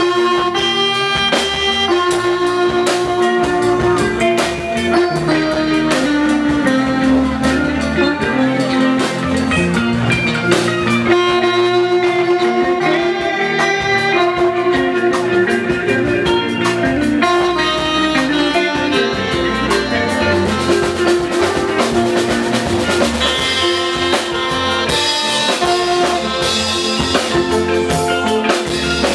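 Live band playing an instrumental passage with drums and percussion, keyboard or guitar lines and horn-like sustained notes, no singing.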